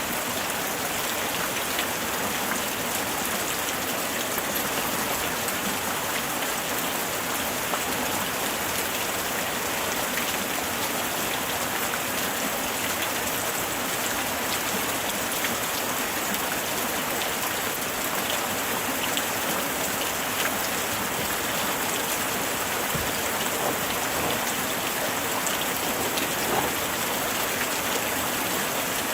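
Light rain falling steadily, with many small drops pattering on surfaces.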